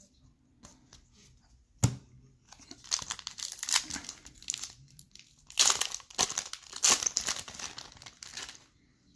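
Foil trading-card pack wrappers being torn open and crinkled by hand, in two long rustling stretches. A single sharp knock comes just before, a little under two seconds in.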